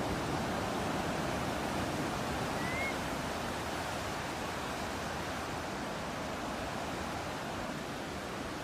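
Ocean surf washing steadily with a breeze, an even rushing sound without pauses. A single short, faint rising bird chirp comes about three seconds in.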